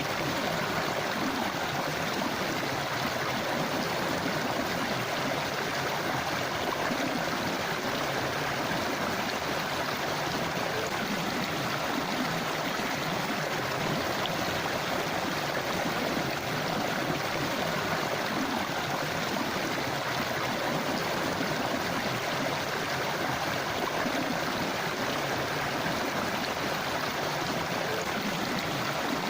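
River water flowing and babbling over rocks: a steady, even rush.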